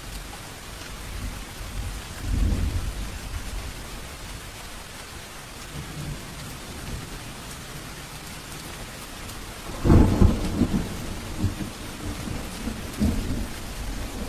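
Steady rain falling, with rolling thunder. A low rumble comes about two seconds in, and a loud thunderclap about ten seconds in rumbles on, with another clap near the end.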